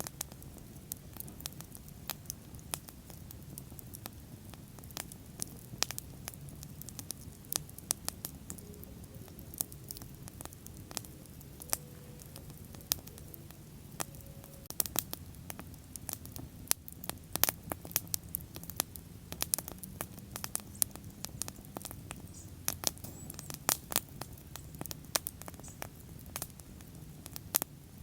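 Wood bonfire crackling: many sharp, irregular pops and snaps, thicker in the second half, over a low steady rumble of the burning flames.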